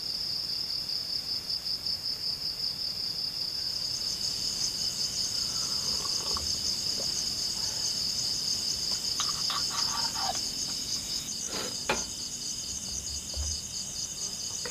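A steady, high-pitched chorus of night insects chirring, with a second insect joining a little higher in pitch a few seconds in. A few faint knocks and clatters come in the second half, the sharpest near the end.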